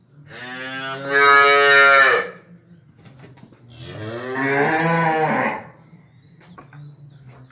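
Cow mooing: two long, loud bellows about two seconds each, separated by a short pause, the first one louder.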